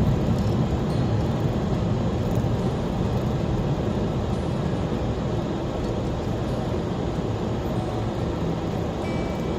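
Steady road and engine noise inside a moving car's cabin: an even low rumble with no distinct events, easing off slightly over the stretch.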